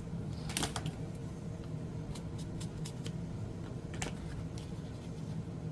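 Scissors snipping paper: a quick cluster of sharp snips about half a second in, lighter clicks through the middle, and another strong snip near the end, over the steady low hum of an air conditioner.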